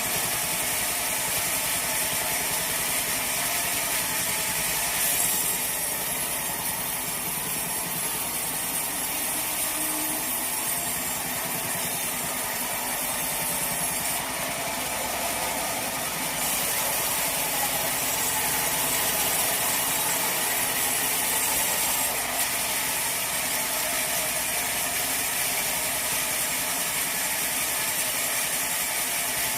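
Sawmill saw and its machinery running steadily, a dense high-pitched hiss with a few shifts in tone along the way.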